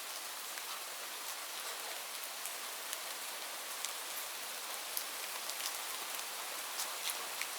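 Steady rain falling: a constant hiss with many individual drops ticking sharply on a surface.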